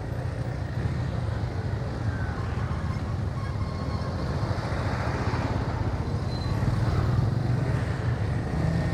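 Steady road noise from a motorcycle being ridden through city traffic: the bike's engine running with a constant low rumble, growing a little louder in the second half.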